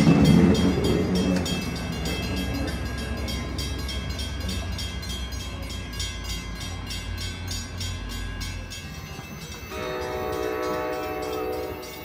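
Shore Line East passenger train pulling out of the station, its low rumble fading over the first couple of seconds and running on quietly. About ten seconds in, a train horn sounds once, a chord of several steady tones held for about two seconds.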